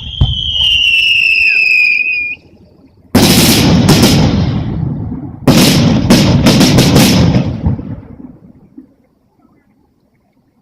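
Fireworks: a whistling shell gives a falling whistle for about two seconds. Then two big shell bursts boom about three and five and a half seconds in, the second followed by a string of sharp crackles. The sound fades away by about nine seconds.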